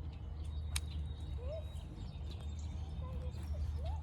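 Steady low rumble, like wind on the microphone, with a sharp click about three-quarters of a second in and a few brief rising chirp-like calls, one near the middle and one near the end.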